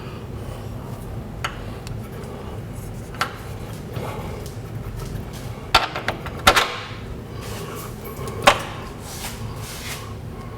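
A few sharp knocks and clanks of tools and parts during work on a truck's rear leaf-spring suspension, the loudest bunched around six seconds in and one more near the end, over a low steady hum.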